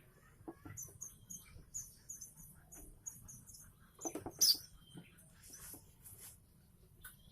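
Young weaver chicks giving many short, high chirps, begging as they are hand-fed. A louder rustling knock comes about four seconds in.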